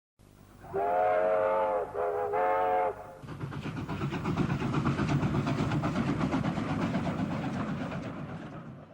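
Steam locomotive whistle sounding two blasts, the first longer. It is followed by the locomotive working away with a steady rapid run of exhaust chuffs, which fade near the end and then cut off.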